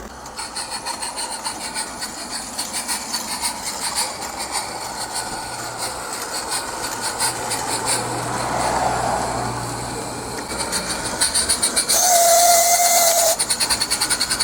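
Small live-steam garden-railway locomotive running light under steam, its exhaust beats coming quickly and evenly, on a test run after a broken gear in its inertia drive was repaired. About twelve seconds in, its steam whistle sounds for just over a second.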